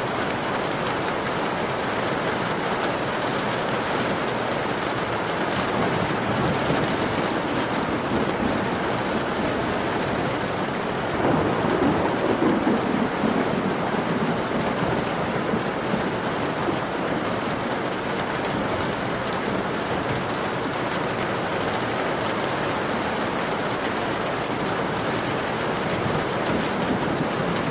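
Steady rain falling on a window. About eleven seconds in, a low rumble of thunder swells and dies away over a few seconds.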